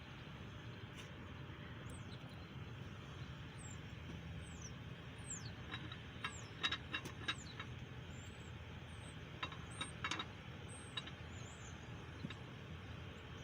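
Light metal clicks and knocks as a small block Chevy 350 camshaft is worked out of the engine block, its lobes and journals catching on the cam bearings. The clicks come in two short clusters over a steady low hum.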